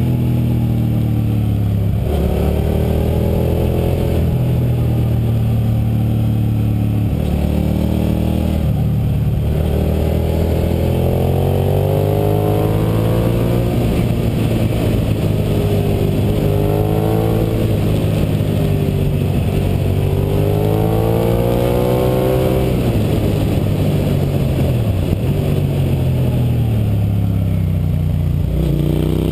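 2006 Suzuki SV650's V-twin engine under way, its revs climbing and dropping back over and over as the bike is ridden through a run of tight curves.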